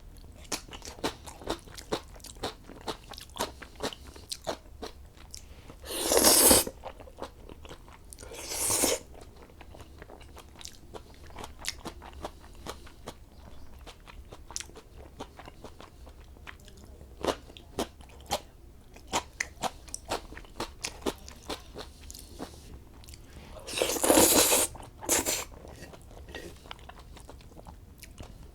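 Close-up eating of black bean noodles: steady chewing with many sharp crunching clicks, and a few short, louder slurps about six, eight and twenty-four seconds in.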